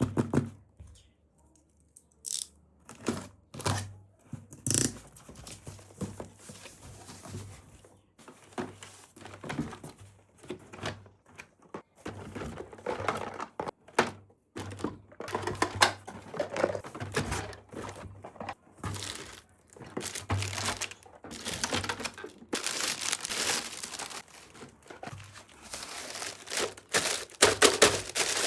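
Toy packaging being unboxed: plastic wrapping crinkling and tearing, with many small clicks and thunks of plastic toy pieces being handled, the handling getting busier and louder in the second half.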